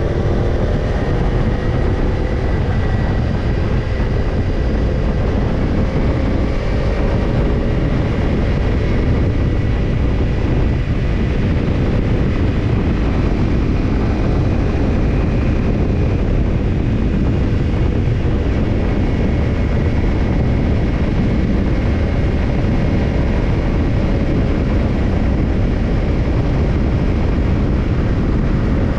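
Kawasaki Ninja 250's parallel-twin engine running through a BEET Nassert Evolution Type II titanium slip-on muffler at a steady engine speed, its exhaust note easing slightly at first and then holding level under a steady rush of noise.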